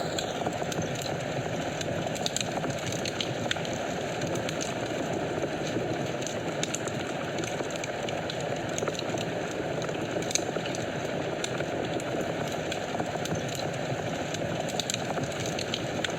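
Wood fire burning in a fireplace: a steady rush of flames with many small, irregular crackles and pops.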